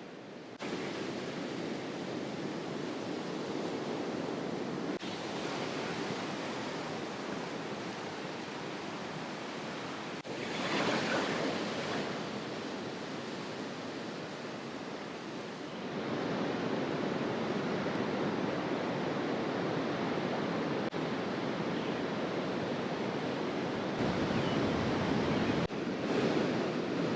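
Steady rush of surf washing on a shore, with some wind, swelling once about ten seconds in; the level jumps abruptly several times.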